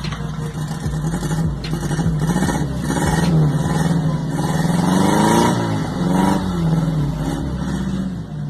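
Volkswagen Gol CHT 1000 four-cylinder engine revved several times, its exhaust note rising and falling, highest about five seconds in. The exhaust has a sporty note that comes from a washer fitted inside the pipe.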